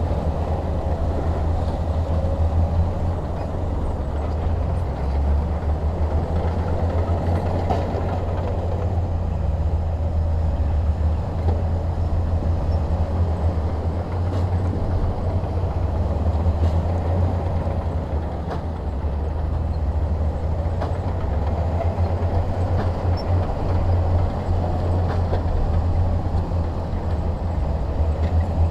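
Heavy diesel engine of earth-moving equipment running steadily under load, with a strong low drone and a few faint knocks.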